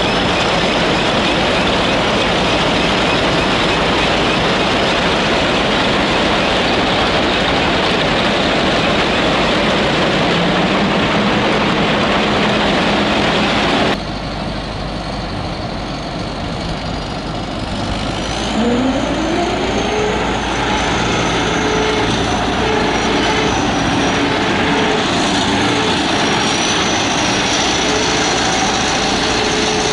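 Yenisei 1200 combine harvester running: a loud, steady mechanical din that changes abruptly about 14 seconds in to a quieter running sound. A few seconds later the engine speed rises with a climbing whine, then holds a steady pitch.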